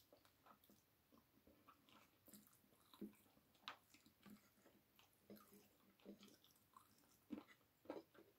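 Faint chewing as a person eats chicken and rice by hand, with soft, irregular mouth clicks and smacks every second or so.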